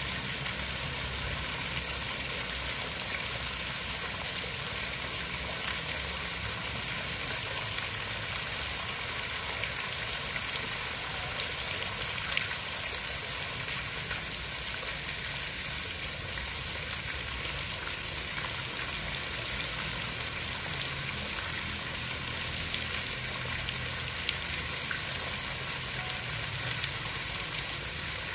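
Steady hiss of water, with a few faint ticks here and there.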